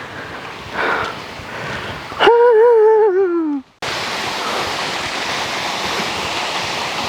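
Waterfall rushing, faint and growing louder at first. A loud, wavering held tone that falls in pitch at its end cuts across it just past two seconds. After a brief drop-out the falls rush steadily and much louder, close at hand.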